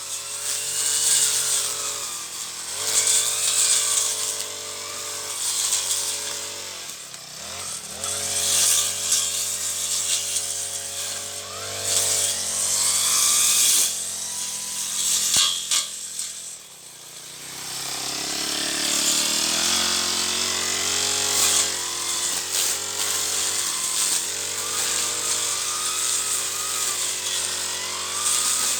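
Petrol brush cutter (grass-cutting machine) running at high revs while clearing weeds, its engine speed wavering as it cuts. It drops off briefly about 7 seconds in, and again near 17 seconds, before revving back up.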